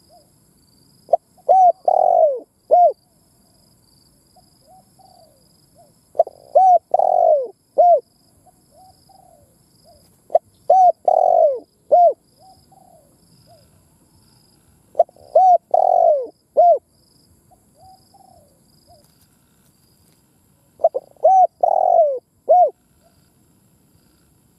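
Spotted dove cooing, its multi-note song repeated five times, about every four to five seconds, with softer coos between phrases. Faint high chirping runs behind.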